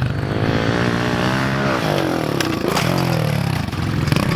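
Pit bike engine revving, the pitch rising and falling twice as the throttle is opened and closed, with a couple of sharp clicks about halfway through.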